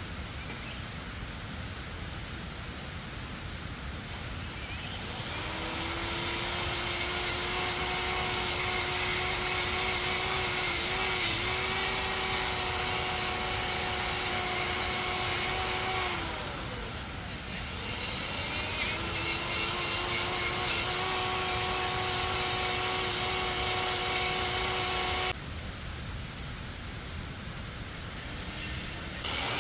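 Electric power tool motor spinning up and running at a steady high whine, in three runs: it winds down once, starts again a couple of seconds later, cuts off abruptly and starts up once more near the end. A steady hiss sits underneath.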